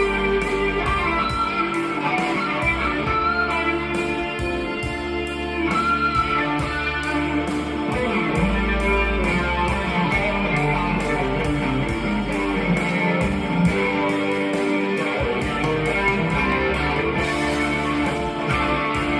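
Gretsch electric guitar playing an improvised lead with held notes and string bends over a bass line and a steady beat.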